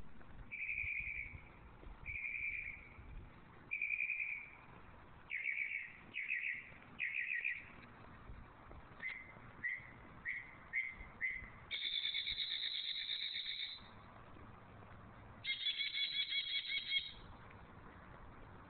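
A bird singing loudly in a run of varied, repeated phrases. First come three clear whistled notes, then three trilled notes, then five short quick notes. Two longer, harsher buzzy phrases follow near the end.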